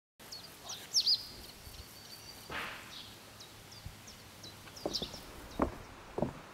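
Small birds chirping in short, high calls, the loudest about a second in. There is a soft whoosh a little past two seconds in, and a few short dull knocks near the end.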